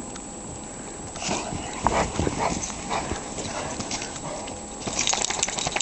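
Footsteps crunching through wet, heavy snow: a few irregular steps, then a quicker run of crunches near the end.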